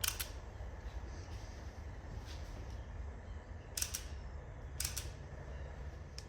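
Three sharp clicks, one at the start and two close together about four and five seconds in, over a steady low rumble.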